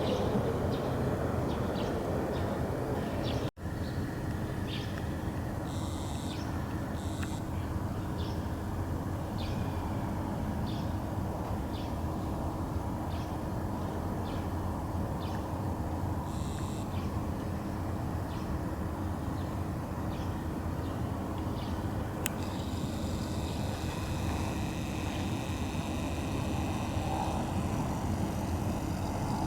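Small wild birds giving short high chirps, one roughly every second, over a steady low rumble. From about two-thirds of the way through, a denser run of high, even-pitched calling joins in.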